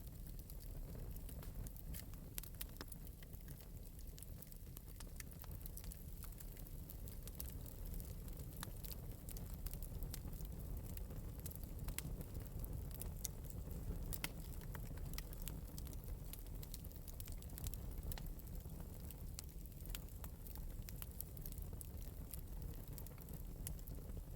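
Wood fire burning in an open metal fireplace, with a steady low rumble and scattered, irregular light crackles and pops.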